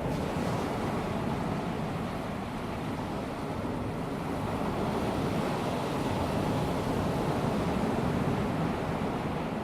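Small waves of a calm sea washing onto a sandy beach, a steady rushing wash that swells gently and eases off, with some wind on the microphone.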